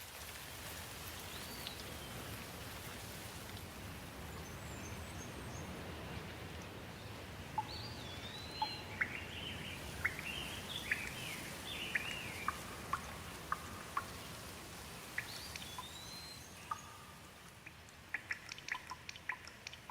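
Birds chirping, a string of short rising and falling whistled calls over a steady low background noise, busiest in the middle. Near the end a run of small sharp clicks takes over.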